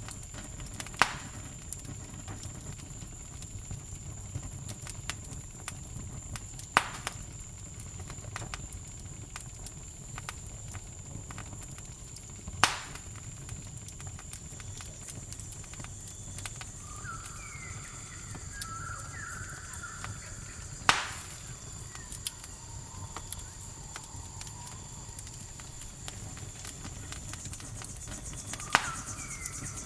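Campfire crackling, with five loud pops spread several seconds apart, over a steady high cricket trill. A short run of chirping calls comes in about two-thirds of the way through and again near the end.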